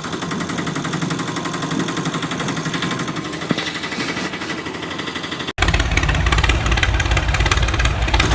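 An engine running steadily with a fast, even pulse. About five and a half seconds in it cuts off abruptly, and a louder, deeper engine sound takes over.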